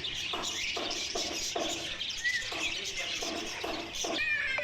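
Many caged birds calling at once in a dense chirping chatter. Through it runs a string of short, sharp calls, about two a second, and a longer pitched call comes near the end.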